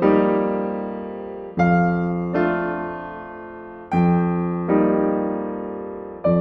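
Slow, soft solo piano music: chords struck about every one to one and a half seconds, each left to ring and fade.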